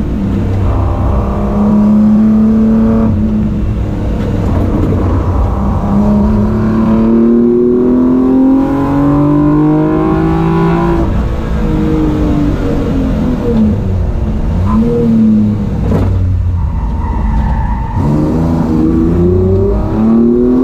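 BMW E30 325i's 2.7-litre M20 straight-six with individual throttle bodies, heard from on board, revving hard up and down through the gears. The engine note climbs, then drops at each shift, with a quick throttle blip about fifteen seconds in.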